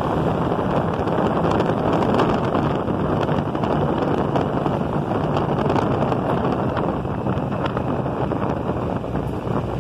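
Wind rushing over the motorcycle-mounted phone's microphone while riding, with the motorcycle's engine running steadily underneath.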